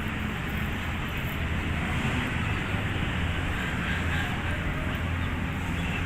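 Pakistan Railways AGE-30 diesel-electric locomotive running with a steady low drone, growing slightly louder.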